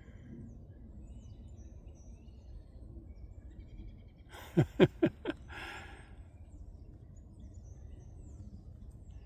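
Quiet forest ambience with faint, scattered bird chirps. About four and a half seconds in, four short, loud sounds come in quick succession, each dropping quickly in pitch, followed by a briefer, softer rustle.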